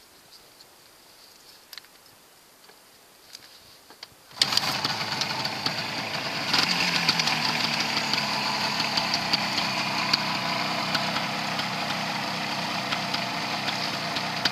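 A 1975 Suzuki GT250's air-cooled two-stroke twin engine fires up about four seconds in after a few quiet clicks and knocks. It picks up briefly about two seconds later, then runs steadily at idle.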